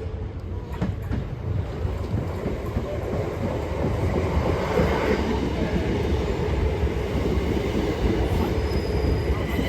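A train running past on the rails, a steady low rumble that grows louder partway through, with thin high wheel-squeal tones coming in near the end.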